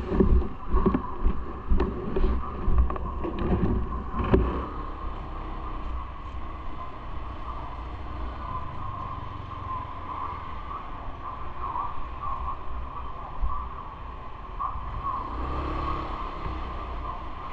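Bicycle ride heard on an action camera: a steady low rumble of wind and rolling, with a run of irregular knocks and rattles over the first four seconds or so, then a smoother run. A steady mid-pitched hum lasts the whole way through.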